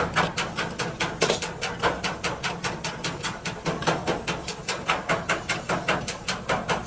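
A fast, even series of sharp taps or knocks, about six a second, like rapid light hammering.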